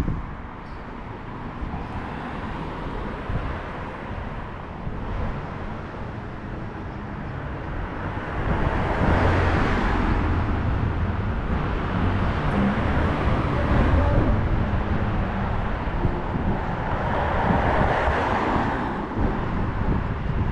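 City street traffic: cars driving past, growing louder about eight seconds in, with two swells as vehicles pass close by.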